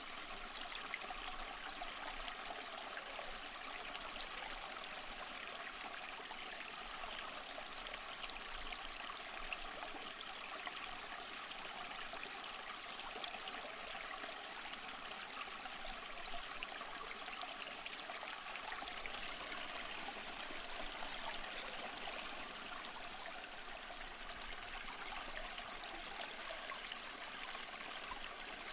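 Stream water running and trickling steadily, a continuous babbling rush with fine splashy flickers and little low rumble.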